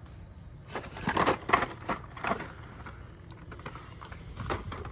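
Plastic blister-packed toy cars being handled: crinkling and clacking of the packaging in two short spells.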